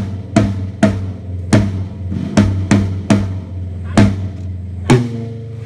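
PDP FS Series acoustic drum kit played, with strikes about twice a second. Low tom and kick tones ring on underneath the hits.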